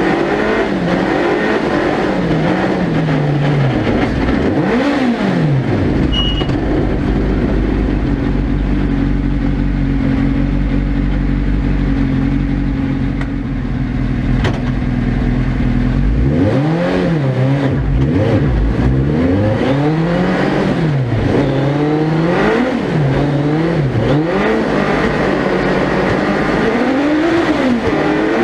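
Suzuki Hayabusa 1300cc inline-four motorcycle engine powering a small prototype ice-racing car, its revs rising and falling with the throttle. About six seconds in the revs settle and hold steady for roughly ten seconds, then go back to quick repeated rises and falls.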